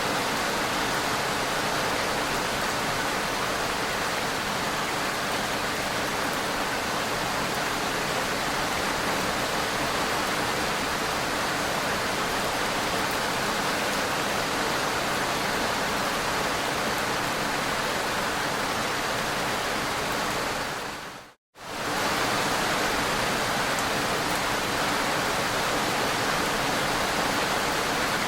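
Steady rain, an even hiss with no breaks in it. About three quarters of the way through it fades out to silence for a split second and comes straight back in, where the recording is joined.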